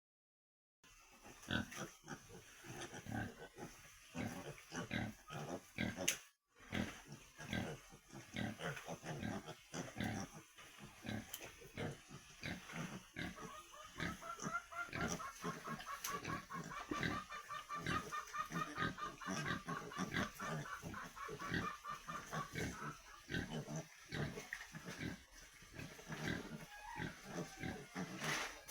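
Many pigs grunting, with short irregular grunts overlapping one another, and a long high steady tone running through the middle.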